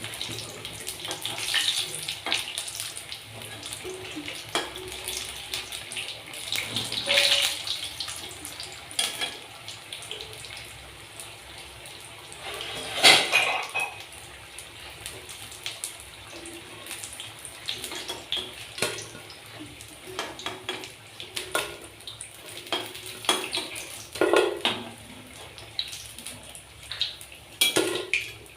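Metal utensils clinking and scraping against a wok and plates as fried pakoras are lifted out of the oil, over a faint steady sizzle of frying oil. One louder clatter comes about halfway through.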